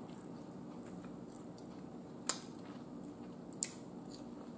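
Quiet chewing of a barbecue rib, with two sharp mouth clicks or smacks about a second and a half apart, the first about two seconds in.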